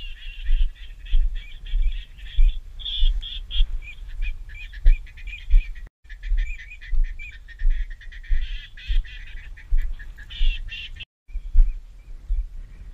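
Birds calling in quick runs of short, high chirping notes, over irregular low thumps of wind or handling on the microphone. The sound drops out briefly twice, about six and eleven seconds in.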